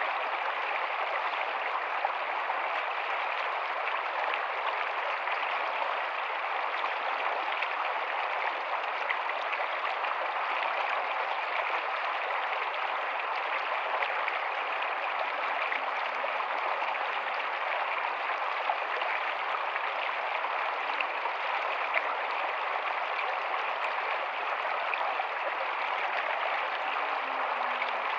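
Rocky stream running steadily, a continuous even rush of water over stones, with faint low gurgles in the second half.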